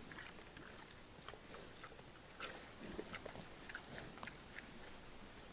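An animal feeding close to a trail camera's microphone: faint, irregular crunching and chewing clicks.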